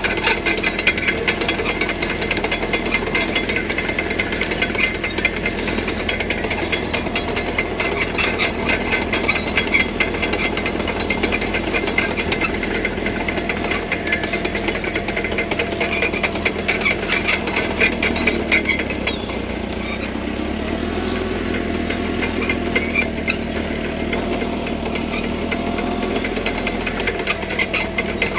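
CAT D3K crawler bulldozer working gravel: its diesel engine runs under load while the steel tracks clatter and squeal in a fast run of clicks. About two-thirds of the way through the clatter eases and the engine note shifts.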